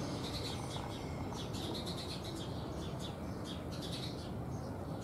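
Small birds chirping and twittering in quick clusters of short high notes that come and go every second or so, over a steady low background rumble.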